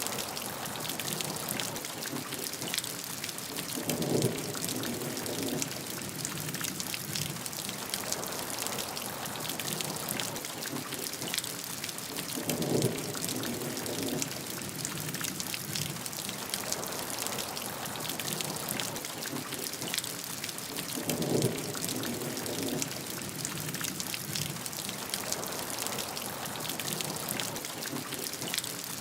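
Steady rainfall, a dense patter of drops over an even hiss. A short low rumble swells and fades about every eight seconds, three times.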